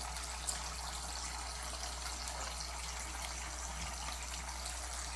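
Tap water running steadily into a birds' bath, an even hiss with no break.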